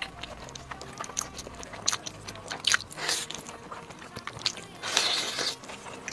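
Close-miked biting and chewing of a crispy spring-roll-wrapped noodle roll: sharp crackles throughout, with two longer crunching bursts about three and five seconds in.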